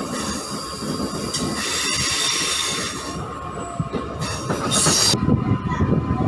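MEMU train running, its wheels squealing high on the rails. The squeal cuts off suddenly about five seconds in, and a louder low rumble and clatter of the running gear takes over.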